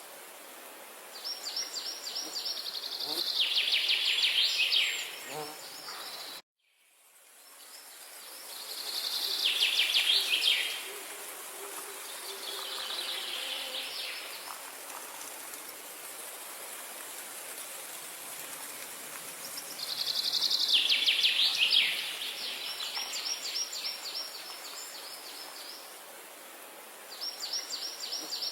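A songbird singing the same song over and over: a fast run of high notes that steps down in pitch, each song lasting about two to three seconds and repeated about five times, over a steady background hiss. The sound drops out completely for a moment about six seconds in, then fades back in.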